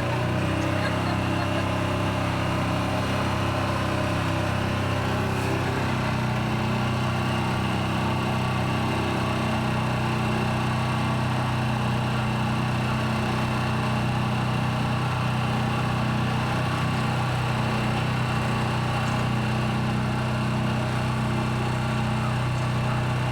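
Motorboat engine running at a steady, unchanging pace, a constant low hum with a noisy wash above it.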